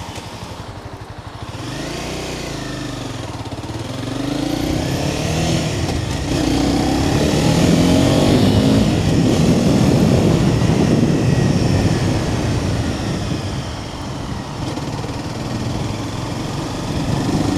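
Honda CBR300R's single-cylinder engine pulling the bike along, its pitch climbing for the first few seconds as it accelerates, with a loud rush of wind noise that builds with speed and eases a little near the end.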